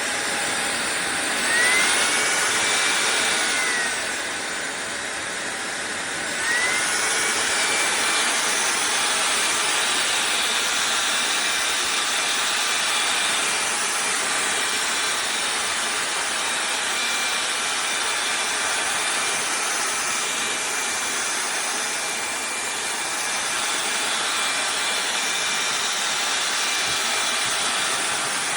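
SunSare X7A cordless stick vacuum running with a steady whine. Its motor pitch rises about a second and a half in, drops back around four seconds, then rises again a couple of seconds later and holds steady.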